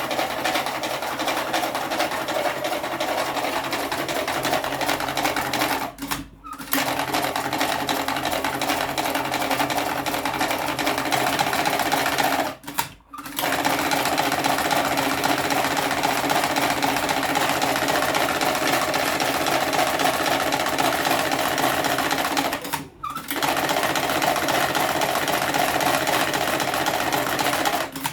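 Electric cigarette-rolling machine with a tobacco hopper running steadily. It stops briefly three times, each time for under a second.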